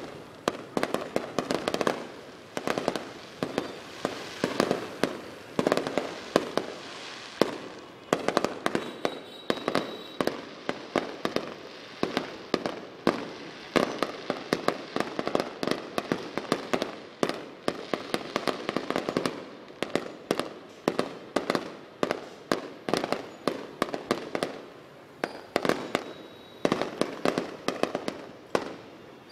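Aerial fireworks display going off in rapid succession: a continuous barrage of sharp bangs and crackles, several per second, each with a short echo.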